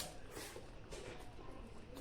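Close-miked eating sounds: chewing, with a few brief clicks from the food and mouth.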